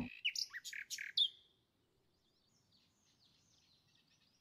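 Small birds chirping faintly: a few short high chirps in the first second or so, one sliding down in pitch, then softer twittering.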